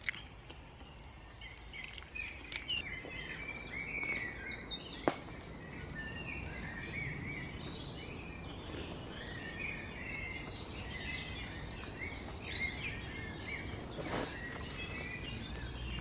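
Woodland birds chirping and singing, many short overlapping calls, over a low steady background noise, with a brief rustle near the end.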